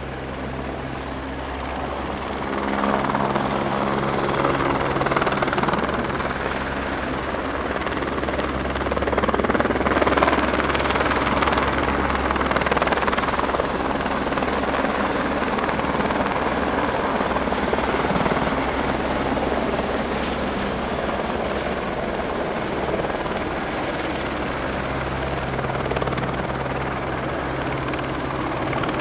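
Steady mechanical drone: low humming tones under a broad rushing noise, swelling a little a few seconds in and again around ten seconds in.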